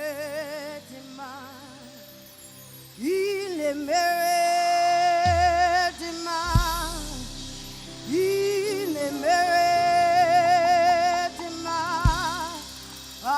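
Gospel worship music: long, held sung notes with vibrato and slides over a keyboard and bass accompaniment, with a couple of sharp low hits.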